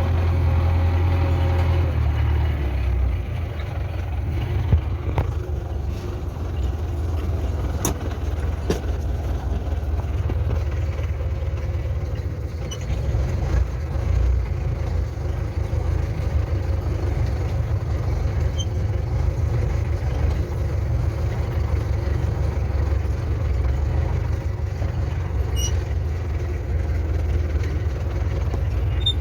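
Tractor engine running steadily with a deep drone that drops in pitch about two seconds in. A few sharp clicks come around five to nine seconds in.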